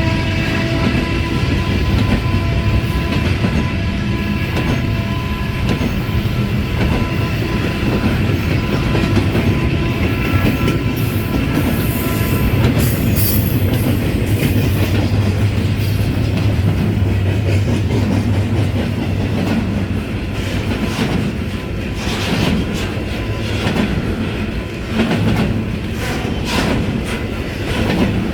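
Long freight train rolling past at speed: a steady rumble with the steel wheels clacking over the rail joints, the clacks sharpest near the end. The steady tones of a locomotive horn fade away over the first few seconds.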